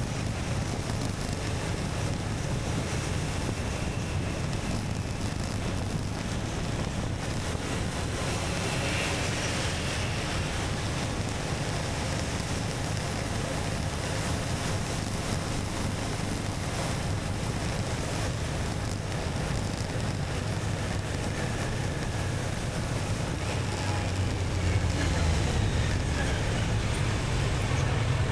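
Steady wind rush on the microphone of an action camera on a moving motorcycle, with the motorcycle's running and road noise underneath; it grows a little louder near the end.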